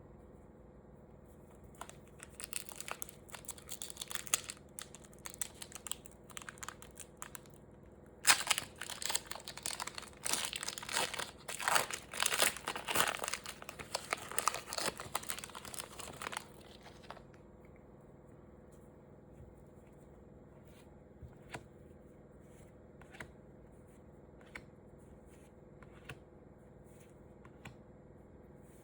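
Plastic packaging crinkling and being torn open on a Pokémon card box. It starts in bursts about two seconds in, is loudest from about eight to sixteen seconds, then gives way to a few light clicks of handling.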